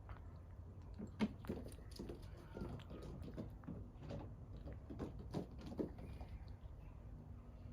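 Kittens making a run of soft, irregular clicks and taps, with one sharper tap about a second in.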